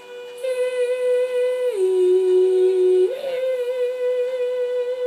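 A man humming in tune with a vacuum cleaner's steady whine: he holds the machine's pitch, drops to a lower note for just over a second, then comes back up to match it.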